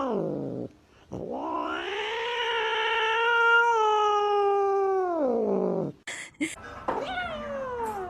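Domestic cat yowling: one long drawn-out howl that rises, holds and then falls, followed near the end by shorter falling cries.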